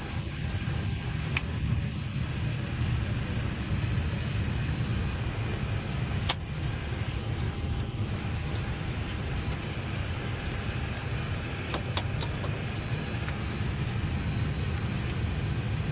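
Airbus airliner cockpit noise while taxiing after landing: a steady low rumble with hiss, broken by a few short sharp clicks.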